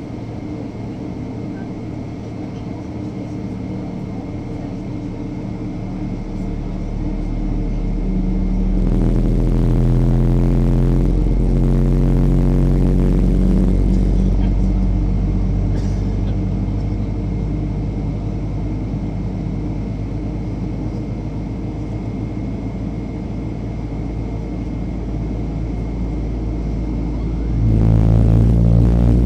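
Boeing 777-300ER engine noise heard from inside the cabin: a steady low rumble with humming tones. It grows louder from about six seconds in and steps up sharply again near the end.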